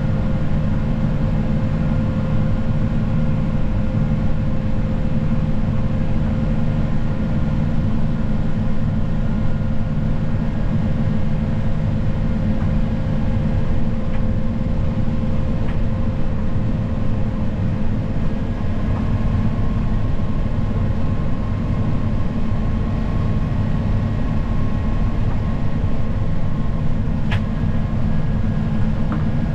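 Snow plow vehicle's engine running steadily under load, a constant low drone with a faint steady whine, and a few faint clicks.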